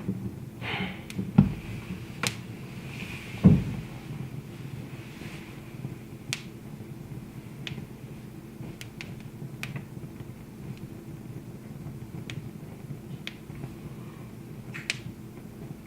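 Wood fire crackling, with sharp pops at irregular intervals over a steady low hum and a heavier thump about three and a half seconds in.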